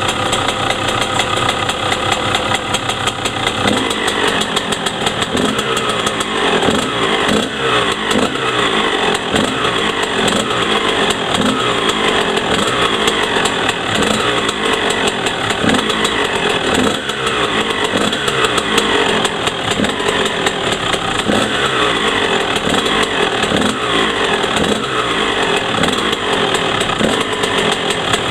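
2000 Honda CR125's two-stroke single-cylinder engine with a Doma exhaust, warming up. It runs steadily at first, then from about four seconds in is revved again and again in short throttle blips.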